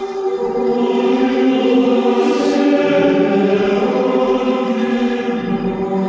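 Choir singing, holding long sustained chords.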